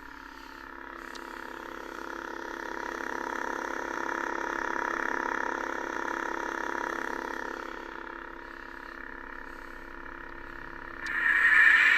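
Lightsaber sound board (an Ultrasound board) playing its blade hum: a steady, throaty drone of several even tones that swells in the middle and eases off. Near the end a louder, brighter burst comes in and cuts off suddenly.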